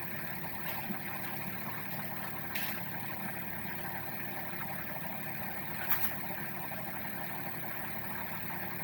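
Suzuki Wagon R idling, remote-started with its air conditioning running to defrost: a steady hum and hiss of engine and blower, with a few faint clicks.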